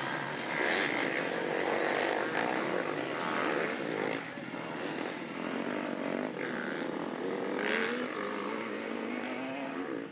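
Motocross dirt bikes running on a track, their engines revving up and down over a steady background.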